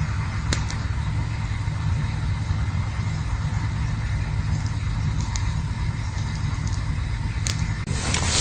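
Campfire burning with a steady low rumble and a few sharp crackles. A loud rushing hiss starts near the end.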